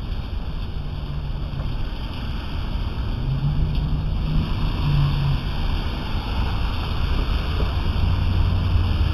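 Steady rain falling: a continuous hiss over a low rumble.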